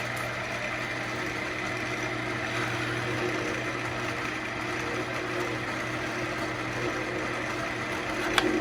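Central Machinery wood lathe running with a steady hum while a turning tool cuts out the centre of an ambrosia maple bowl, giving an even hiss. A single sharp click near the end.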